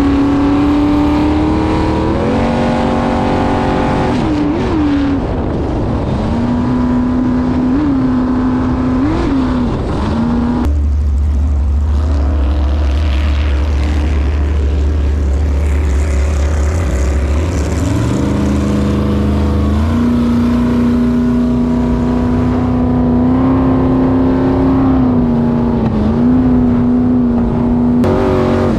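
Jet boat's Chevy V8 engine running at steady high revs, with short blips of the throttle. About eleven seconds in it falls off to a low rumble, then revs back up a few seconds later and settles again at a steady run.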